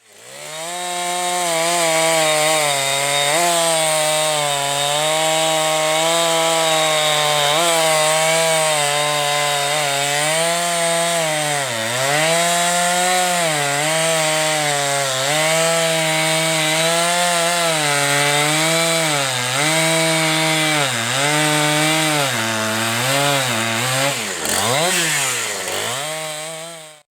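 Husqvarna 372-clone two-stroke chainsaw running hard while cutting wood. Its engine note keeps dipping as the chain loads in the cut and then recovers, with a deeper drop and rise near the end.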